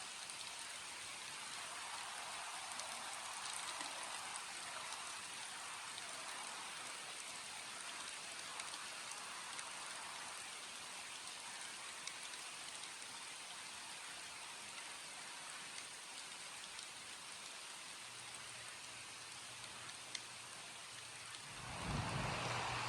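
Steady rain falling, an even hiss with scattered single drop ticks. Near the end a louder swell with a low rumble rises over the rain.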